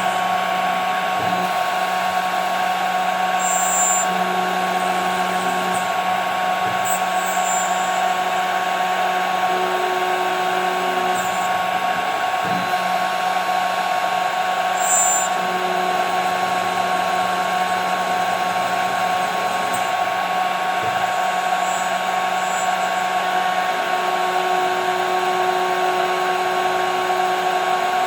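CNC router spindle running with a steady high whine while its bit mills 5 mm plexiglass, with a few brief high chirps now and then.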